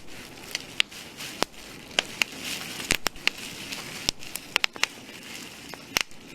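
Bubble wrap being popped by hand, irregular sharp pops over a soft rustling of the plastic sheet, which together sound like a crackling campfire.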